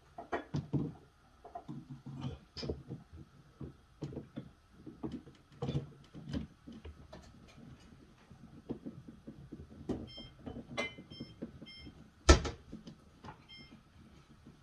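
Irregular knocks and clatter of parts being handled. About ten seconds in comes a run of short electronic beeps, and a little after twelve seconds one sharp, loud knock.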